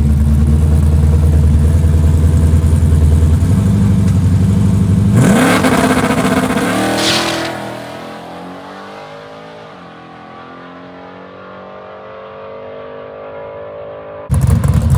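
Drag-racing vehicle's engine running loud and low at the line, then launching about five seconds in with a burst and rising revs. It pulls away down the track, the revs climbing and dropping at the gear changes as it fades into the distance. Near the end a loud engine cuts in abruptly.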